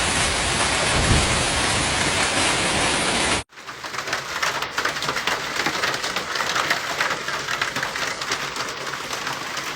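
Hailstorm: a dense, even roar of hail and heavy precipitation for about three and a half seconds, then an abrupt cut to a quieter, crackling patter of many separate hailstone impacts.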